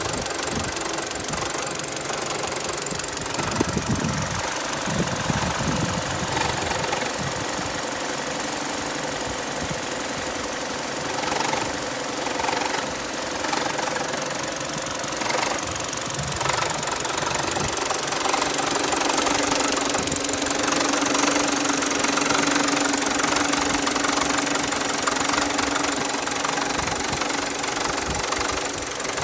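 BMW E90's N46 four-cylinder petrol engine running with an extraneous noise that the owner takes to be abnormal. The sound is steady and grows a little louder, with a low hum added, for roughly the last third.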